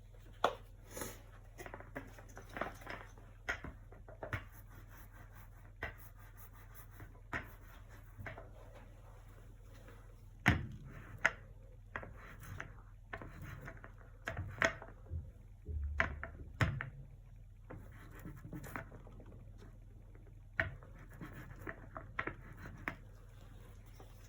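Acrylic painting sounds: irregular small taps, dabs and scratchy rubs of a brush and painting tools on canvas and palette, with a few louder knocks about ten to sixteen seconds in, over a low steady hum.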